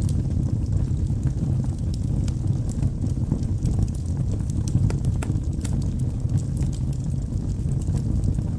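Logs burning in a fireplace: a low steady rumble of the fire with scattered sharp crackles and pops from the wood.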